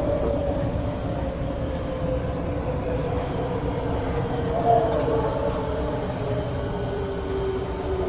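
Osaka Subway 25 series electric train running, with a steady rumble under a motor whine that falls slowly in pitch as the train slows. There is a brief louder sound about halfway through.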